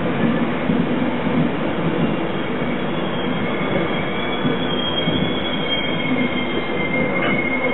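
Passenger train coaches rolling slowly past along a platform, wheels rumbling steadily. A high two-note wheel squeal sets in about three seconds in and holds on.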